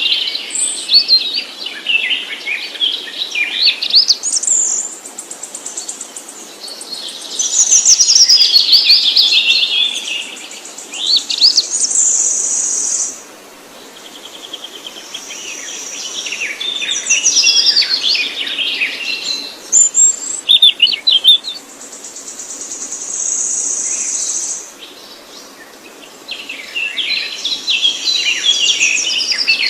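Songbirds singing and chirping in repeated bouts of quick, high whistled phrases, with short lulls between them and a few held high notes lasting a second or so.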